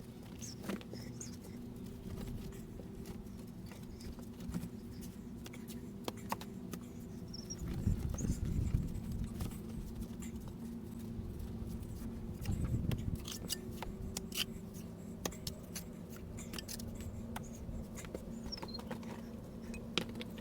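Scattered sharp clicks and taps of stone-laying work over a steady low hum. Louder low rumbles come about eight seconds in and again about twelve seconds in.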